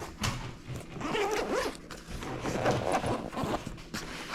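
Zipper on a GoPro accessory bag being pulled.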